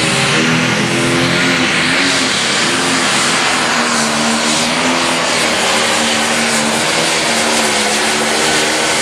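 Turbocharged diesel pulling tractor at full throttle, dragging the sled down the track. Its engine pitch sags slightly a few seconds in and climbs again near the end.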